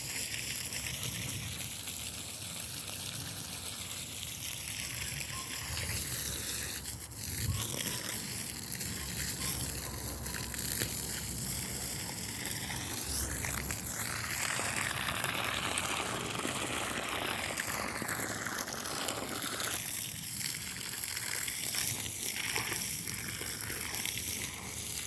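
Water from a garden hose spraying onto a smouldering burn pile of wet yard debris, a steady rushing and splashing hiss. It turns brighter and louder for a few seconds a little past halfway.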